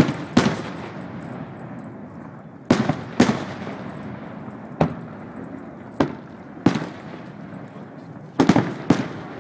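Aerial firework shells bursting: an irregular series of about nine sharp bangs, one to two seconds apart with a quick double near the end, and a rumble carrying on between them.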